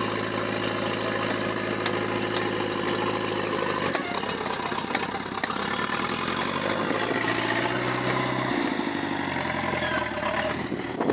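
Backhoe loader's diesel engine running steadily; its note changes about four seconds in, then its pitch rises and holds for a second or so before dropping back, as the engine speed is varied.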